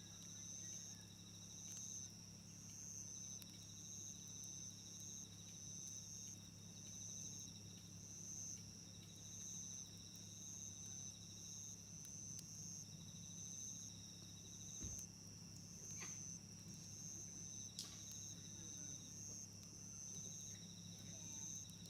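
Insects chirping steadily: one high chirp repeating about once a second over a lower trill that runs in phrases of a few seconds with short breaks. A few sharp pops from the campfire come in the second half.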